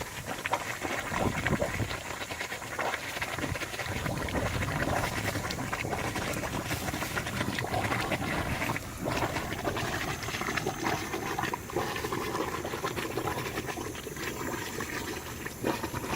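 Compressed air forced into a broken pool main drain pipe, gurgling and bubbling out through water at the break: the sign of a ruptured pipe.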